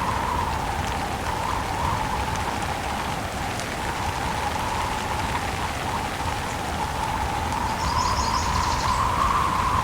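Steady rain falling, an even hiss that eases slightly in the middle and swells again toward the end. A brief faint high chirping comes about eight seconds in.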